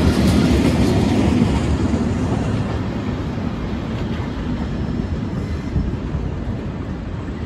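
Two freight trains crossing. Wagons roll past close by with a rumble that is loudest at first and fades over a few seconds, over the steady low drone of a diesel locomotive.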